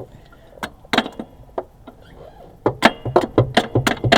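Hand tools working on metal during an engine removal: a few scattered sharp clicks, then, from about two-thirds of the way in, a quick, even run of clicks, several a second.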